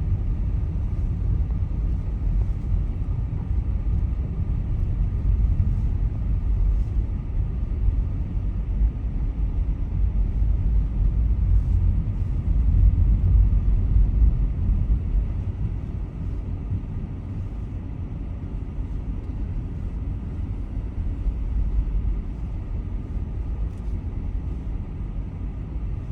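A car driving on the road: a steady low rumble of engine and tyres, swelling a little about halfway through.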